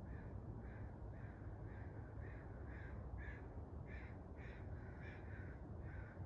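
A bird calling over and over in a steady series of short calls, about two a second, over a faint constant low rumble.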